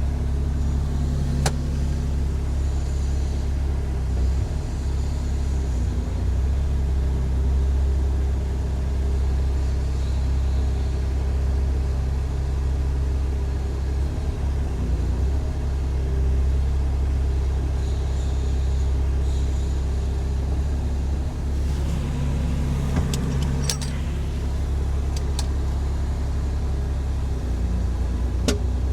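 Mini excavator's Yanmar diesel engine running steadily at an even idle, freshly started. A few sharp clicks stand out in the second half.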